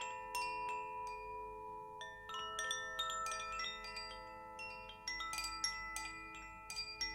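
Chimes being played by hand: many light, irregular strikes, each ringing on at its own pitch, so several clear notes overlap and sustain. The strikes come thicker about two seconds in and again in the last couple of seconds.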